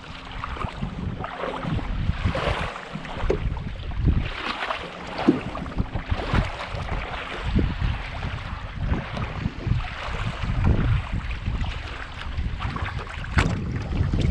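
Gusty wind buffeting the microphone aboard a small skiff, with water splashing and a faint steady hum underneath that fades out near the end.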